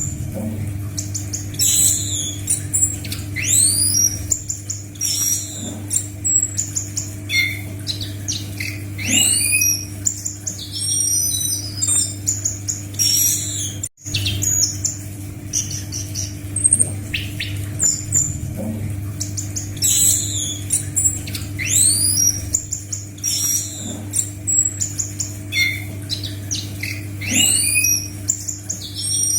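Scaly thrush (anis macan) singing a fast, varied song of high rising and falling whistles and rapid trilled notes, over a steady low hum. The sound drops out for an instant about halfway through.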